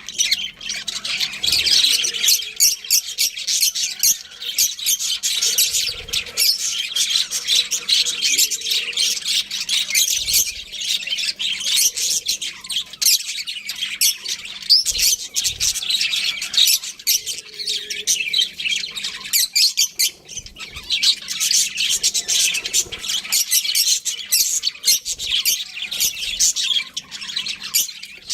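Budgerigars chirping and chattering without pause, a dense run of quick, high chirps and squawks.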